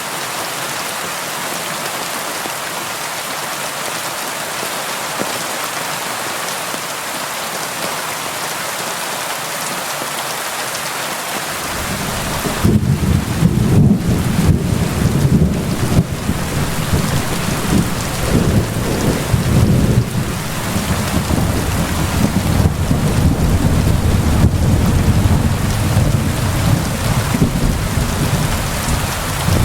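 Steady rain falling on window glass, an even hiss. About twelve seconds in, a deep rumble of thunder sets in under the rain and rolls on to the end.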